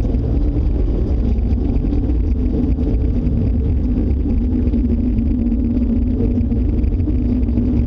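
Loud, steady low rumble with a droning hum over it that neither rises nor falls: the unexplained roaring noise the household feared was a tornado closing in.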